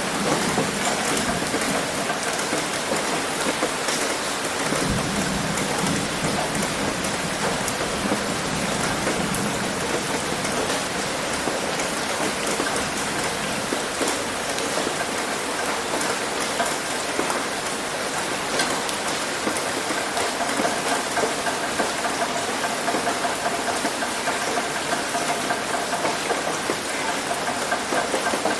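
Heavy rain hitting a roof: a steady, dense wash of countless small drop impacts.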